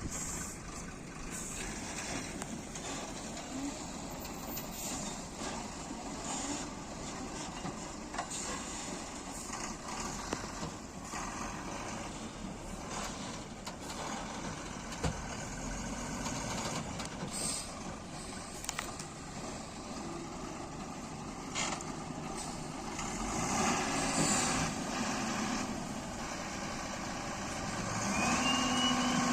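Diesel engines of an excavator and a dump truck running steadily, with scattered short knocks and clanks. It grows louder about three-quarters through, and a steady engine hum sets in near the end.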